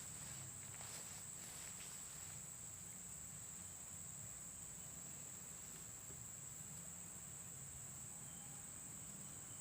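Faint, steady, high-pitched insect chorus, with a few soft rustling steps in the first two seconds.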